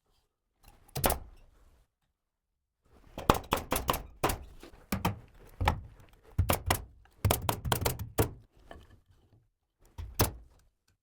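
Carpentry knocks and thunks on wood: a single knock about a second in, then a dense run of sharp knocks in quick clusters through the middle, and a couple more near the end.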